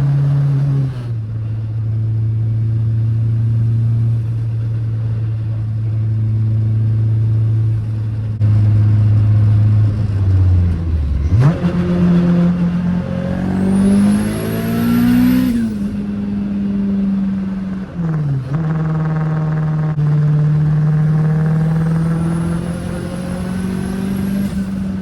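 Turbocharged Honda K20 inline-four with a 6262 turbo, running steadily at cruise. It then pulls hard twice, engine pitch climbing with a very high turbo whistle rising over it each time, and drops sharply when the throttle closes.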